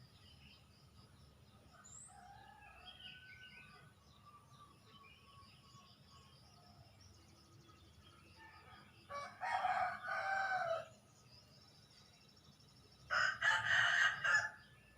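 A rooster crowing twice, about four seconds apart, each crow about a second and a half long, over faint chirping of small birds.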